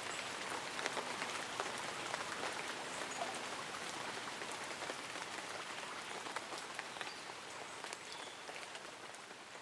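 Light rain pattering on leaves and an umbrella, a steady hiss dotted with many separate drop ticks, slowly fading in the second half.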